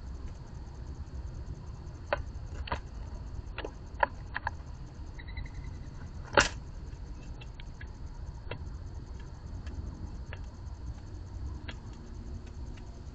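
Birds pecking and shuffling on a feeder: irregular sharp taps and clicks, the loudest about six seconds in, over a low steady rumble.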